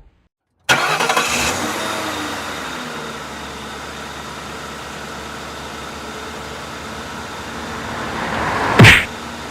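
A cartoon vehicle engine sound effect starts suddenly after a moment of silence and keeps running steadily. Near the end it swells into a brief, loud sudden sound.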